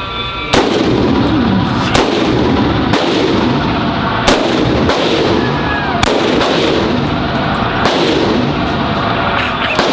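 Gunshots echoing at an indoor shooting range: about eight shots, roughly one a second, each ringing on into the next.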